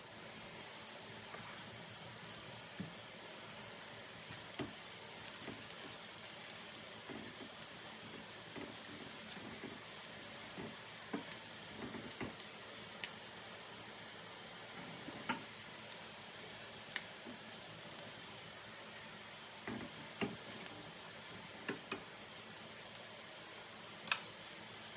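Imitation crab sticks sizzling steadily in a nonstick frying pan. Scattered sharp clicks and taps come from tongs against the pan and a plate as the sticks are turned and lifted out.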